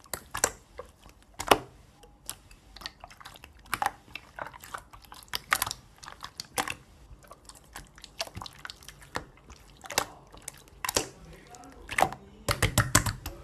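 Clear slime being squished and poked by hand, giving irregular sharp clicks and pops, with a quick flurry of clicks near the end.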